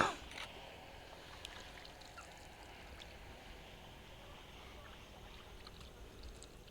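Faint, steady water sounds of a rowboat moving across a lake, with a brief sharp sound right at the start.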